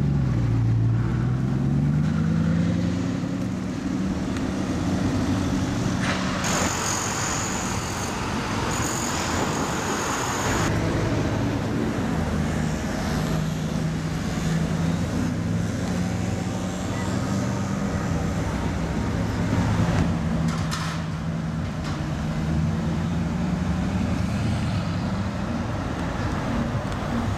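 Bugatti quad-turbo W16 engines in street traffic: a Chiron pulls away with its engine note rising over the first few seconds, followed by steady low engine running mixed with surrounding traffic noise.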